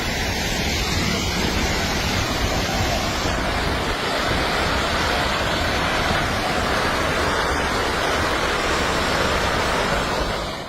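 Steady roar of a landslide, a dense rushing din like a raging river.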